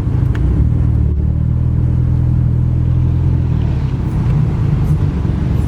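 A car's engine and exhaust running steadily as the car is driven, a low even hum that shifts slightly in pitch.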